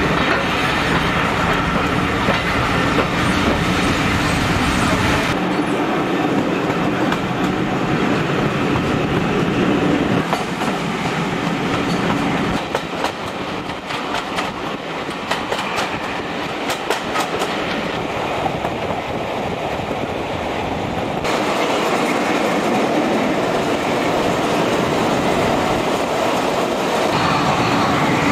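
Heritage railway carriage running along the track, heard from an open window: steady rumble and rattle of wheels on rails, with a run of sharp clicks from the wheels crossing rail joints about halfway through.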